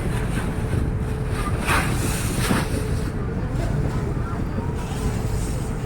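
Ferry under way: a steady low engine drone with a faint steady hum above it, and wind buffeting the microphone.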